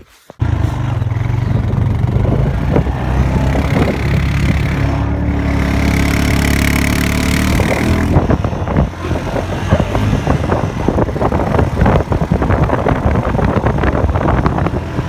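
Quad bike engine running loud and close, starting suddenly about half a second in; its pitch climbs as it revs up over a few seconds, then the sound turns rough and choppy.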